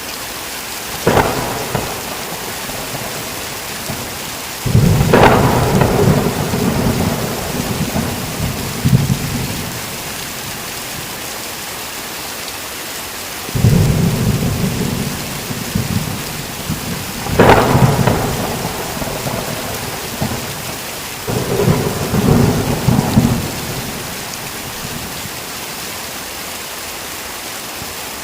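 Heavy rain falling steadily in a thunderstorm, with repeated thunder: a short crack about a second in, then several rolling rumbles, one starting with a sharp crack about two-thirds of the way through.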